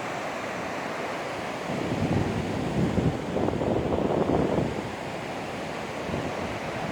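Pacific Ocean surf washing in, louder from about two seconds in and easing off near five seconds, with wind buffeting the microphone.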